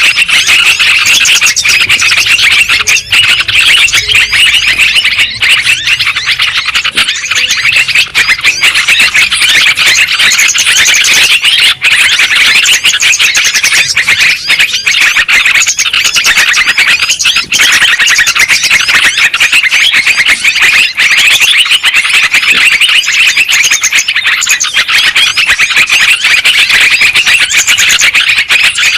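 Dense, continuous chorus of yellow-vented bulbuls (trucukan) singing and chattering, many quick notes overlapping without a break, as used in a bird-lure recording.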